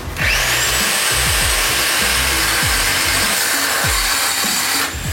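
Angle grinder spinning up with a rising whine, cutting steadily through the stuck old exhaust pipe for about five seconds, then winding down near the end.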